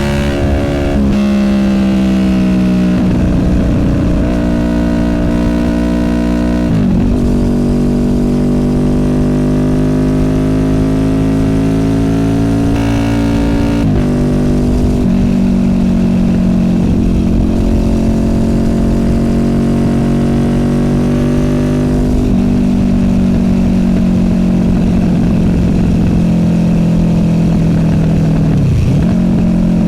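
Honda VFR800F's V4 VTEC engine through an SC Project Conic exhaust, riding under load. The pitch climbs in each gear and drops sharply at gear changes about a second, seven and fourteen seconds in, then holds fairly steady with a brief dip near the end.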